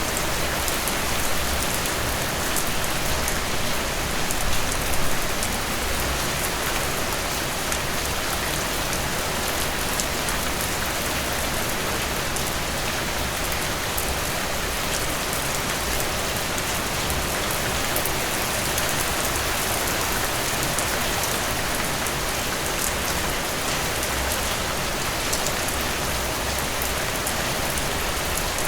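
Steady rain falling, an even hiss with fine pattering drops, swelling slightly a few seconds in.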